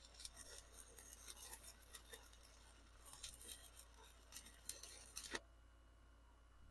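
Stick-welding arc crackling irregularly as a bead is run with a flux-coated electrode, then cutting off suddenly about five seconds in as the arc is broken.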